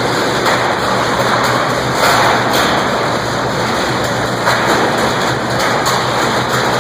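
Electric arc furnace arcing through its one-foot carbon electrodes, melting a fresh charge of scrap steel: a loud, steady, rough noise with a low hum under it.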